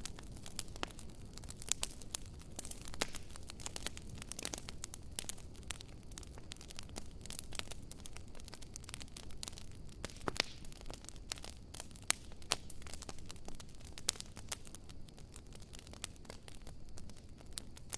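Wood fire in a fire pit burning, with irregular sharp crackles and pops over a low steady rumble.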